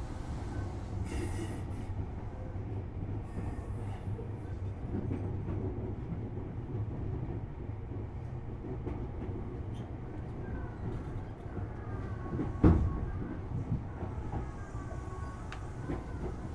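Tobu 6050 series electric train running, heard inside motor car MOHA6172: a steady rumble of wheels on the track. About two-thirds of the way through there is a single loud knock, and in the last few seconds faint whining tones slide in and out.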